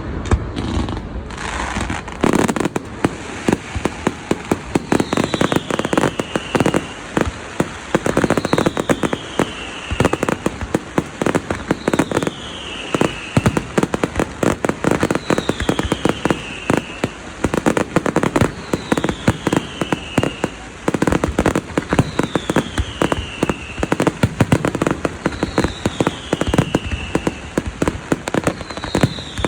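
Fireworks crackling and popping in a dense, continuous barrage. A high whistle glides down in pitch, repeating about every three and a half seconds.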